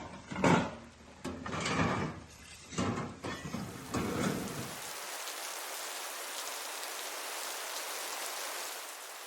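Steady rain falling, an even hiss that sets in about four seconds in. Before it come several loud, irregular bursts of noise.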